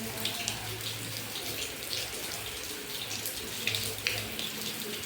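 Steady rain, with many close drips and splashes of water.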